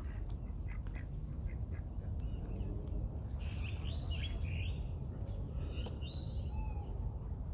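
Birds calling in two short bursts of high chirping calls, about three and six seconds in, over a steady low background rumble.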